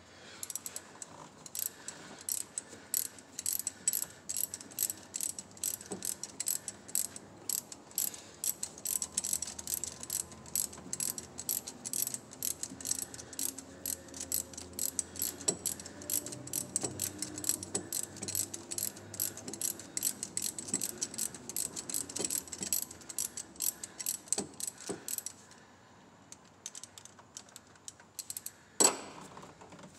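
Socket ratchet clicking in quick, even runs while turning a spark plug, stopping about 25 seconds in. A single sharp knock comes a few seconds later.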